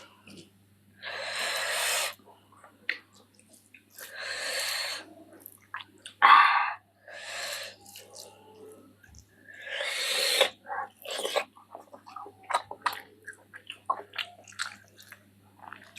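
A person blowing out hard, hissing breaths about every three seconds while eating very spicy curry, the way one cools a mouth burning from chilli. In the second half this gives way to chewing with many short wet mouth clicks and smacks.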